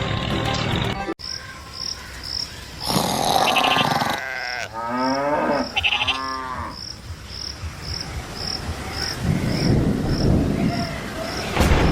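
A cow lows twice, a few seconds in, over a steady row of short, evenly spaced cricket chirps.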